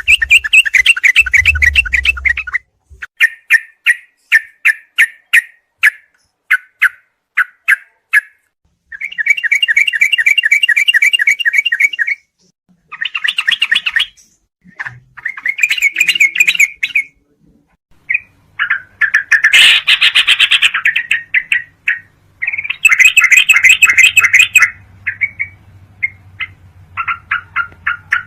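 Trucukan (yellow-vented bulbul) calls from a bird-training recording: bursts of rapid chattering trills alternating with series of single sharp chirps, broken by short gaps.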